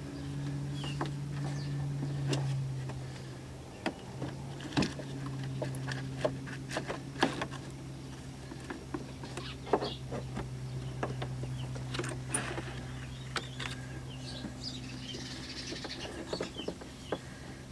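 A plastic cowl panel is worked loose by hand, giving scattered irregular clicks, snaps and knocks. A steady low hum runs underneath.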